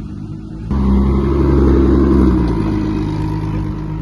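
A car engine that suddenly gets much louder under throttle about a second in, holds for about a second and a half, then eases back to a steady lower running sound.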